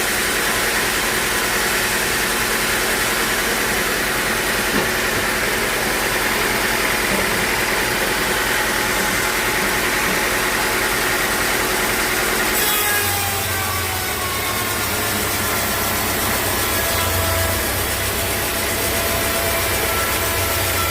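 Sawmill saw running and cutting through a log: a steady rasping saw noise over machine drive. About two-thirds of the way through the sound changes suddenly to a deeper steady hum.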